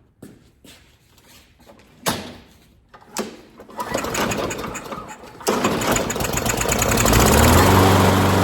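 Walk-behind lawn mower's small engine being cranked with starting fluid sprayed in: a couple of short strokes, then it sputters and catches about five and a half seconds in and settles into a steady run near the end. A slow start, which the mower's automatic choke opening can cause.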